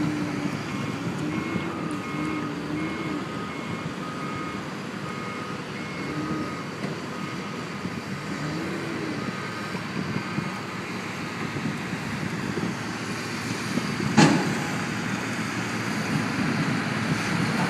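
Steady rushing noise with a faint high beep repeating about once a second for the first ten seconds, and a single sharp knock about fourteen seconds in.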